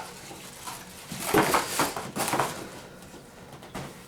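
Rustling and knocking of cardboard and plastic packaging as the cleaner is lifted out of its box, loudest about a second in.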